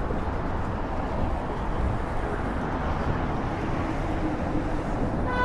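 City street ambience: a steady rumble and hiss of passing traffic.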